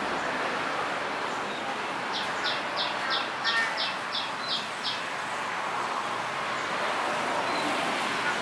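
A bird calling a quick run of about ten short high notes, three or four a second, starting about two seconds in and lasting some three seconds, over a steady outdoor hiss.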